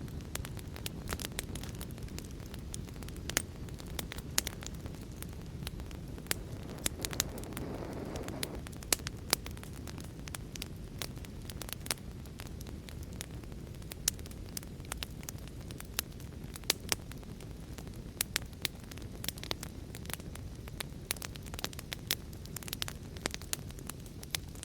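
Fire crackling in a fireplace: irregular sharp pops and snaps over a steady low rumble, with a soft swell of the flames about eight seconds in.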